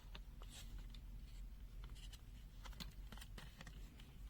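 Faint, scattered small clicks and scrapes of plastic parts being handled as a component is eased out of a multimeter's opened case.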